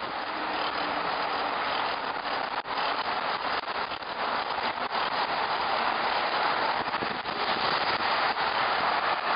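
Steady rushing hiss of wind and tyre noise while riding a bicycle, with a few faint clicks.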